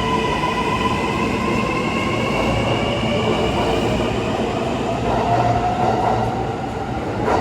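Kintetsu Hinotori limited express electric train slowing to a stop, its traction motor whine sliding gradually down in pitch over rumbling running noise. A short knock comes at the very end.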